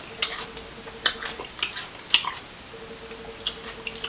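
A person chewing food, with a few wet mouth smacks and clicks at irregular intervals.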